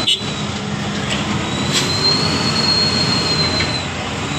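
Heavy truck engine running steadily, with a thin, steady high whine over it.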